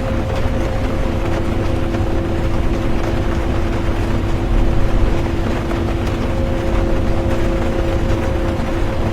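Interior of a moving bus: a steady low rumble of engine and road with a constant droning hum, under an even hiss of rain. It swells briefly about halfway through.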